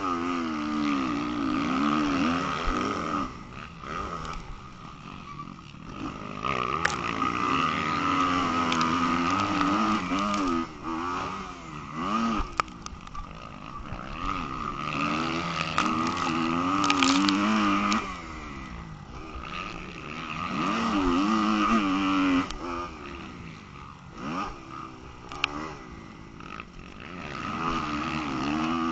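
Motocross dirt bike engine revving up and down over and over as the bike accelerates, shifts and backs off around the track, with a few sharp clicks along the way.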